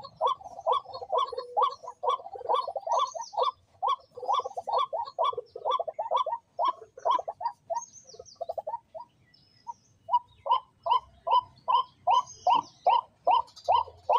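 Birds calling: a fast, even series of short repeated calls, about four or five a second, with fainter higher chirps over them. The series breaks off briefly about two-thirds of the way through.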